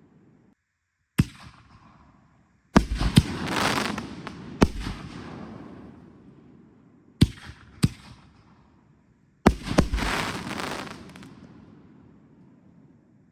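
Consumer aerial fireworks bursting overhead: a series of sharp bangs in three clusters, several followed by a crackling, hissing tail that fades over a second or two.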